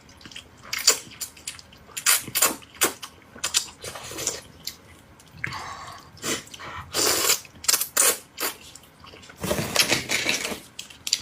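Close-miked eating sounds: a string of wet smacks and clicks of chewing, with a few longer slurps.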